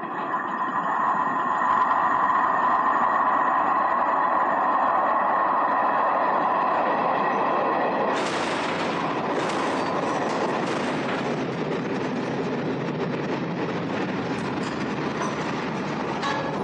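Railway coaches of a crash-test train running on the track with a steady high whine. About eight seconds in it turns to a louder, noisier rattling and clatter with several sharp knocks.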